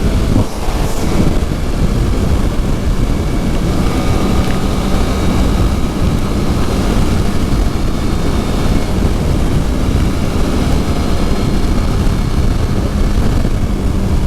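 Wind rushing over the microphone of a moving Suzuki GSX-R750 sport bike, with its inline-four engine running at a steady pitch underneath.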